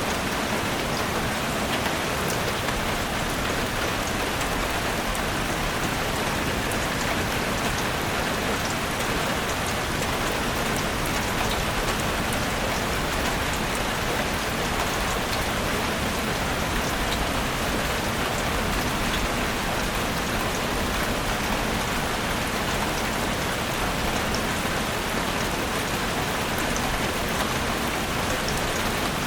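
Steady rain falling, an even hiss with scattered ticks of single drops and no change in strength.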